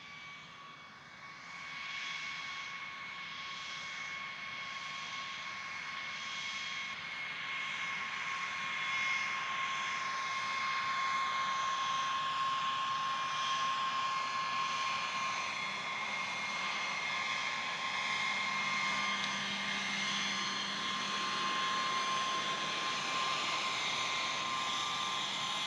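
Jet aircraft engine running: a steady high whine over a rushing noise, growing louder through the first ten seconds or so and then holding steady.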